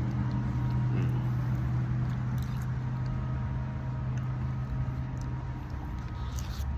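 Steady low mechanical hum, with a few faint clicks and taps over it.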